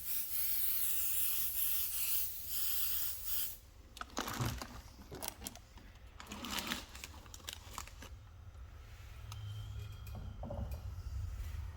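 Compressed-air paint sprayer hissing in a few short pulses for about three and a half seconds, then stopping. Rubbing and rustling handling noises with a few clicks follow.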